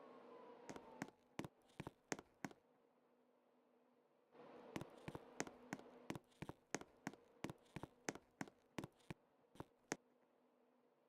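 Faint, irregular sharp clicks, several a second, in two spells with a pause between, over a faint steady hum.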